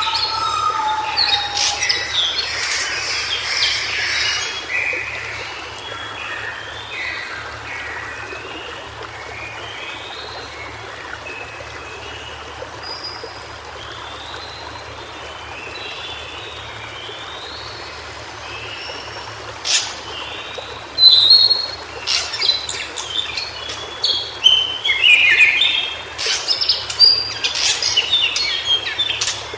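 White-browed shortwing singing: quick jumbled runs of short high notes. The song is busiest at the start, thins out in the middle, and comes back louder with sharp notes in the last third.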